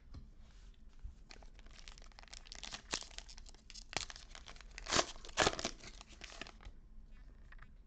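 A trading-card pack's foil wrapper being torn open and crinkled by hand, a run of crackling tears that is loudest about five seconds in.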